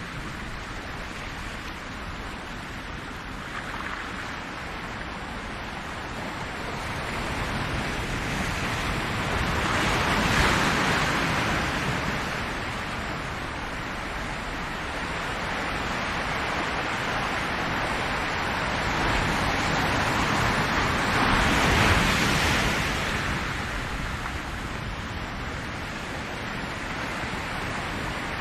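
Ocean waves washing on a shore, a steady surf hiss that swells twice as larger waves break, about twelve seconds apart.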